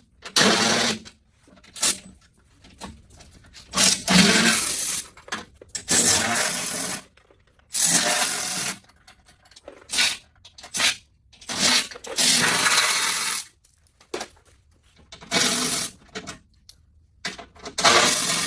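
A power tool run in short spurts, about ten in a row with short gaps between, along with small metallic clinks, as fasteners come off the truck's skid plate.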